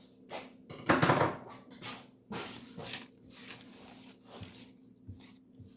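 Rustling, scraping and light knocks of kitchen clean-up work on a counter, loudest about a second in.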